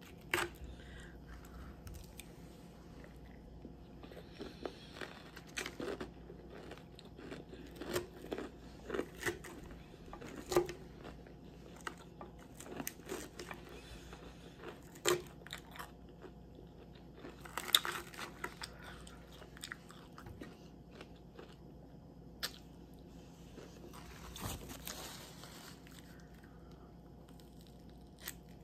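Close-up eating of a lettuce salad: irregular crunching and chewing, with short clicks of a fork against the bowl scattered throughout and the sharpest click about two-thirds of the way through.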